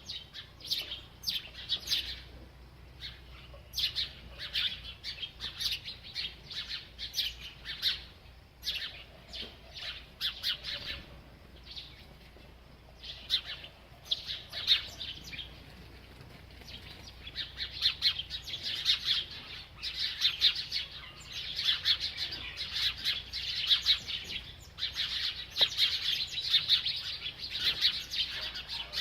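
A small bird chirping in quick runs of short, high chirps, sparser in the middle and coming thick and fast through the second half.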